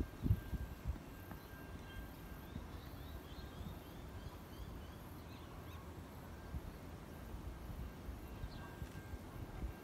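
Outdoor ambience with a bird calling: a quick run of short chirps a few seconds in, over a low background rumble.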